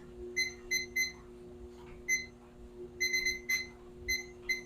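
Button beeps from a digital timer being set: about a dozen short, high, identical beeps at irregular intervals, some in quick runs of two or three, as the buttons are pressed repeatedly on a timer that is not responding well.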